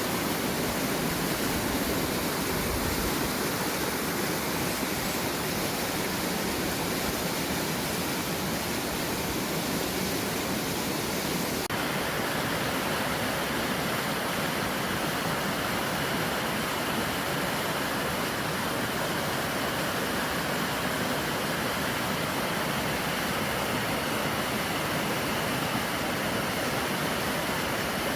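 Mountain stream rushing over rocks, a steady even rush of water; its tone shifts slightly about twelve seconds in.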